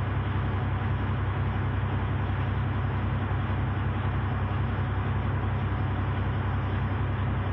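Heavy wrecker's engine running at a steady speed to drive the hydraulic boom as it booms out during a truck recovery: an even, low drone with no change in pitch.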